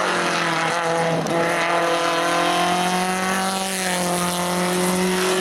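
Rally car engine held at high revs as the car climbs past, with a brief dip in revs about a second in.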